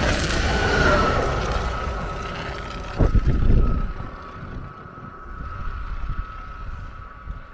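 A train running past and fading away, its rumble dying down while a steady high tone lingers. A gust of wind hits the microphone about three seconds in.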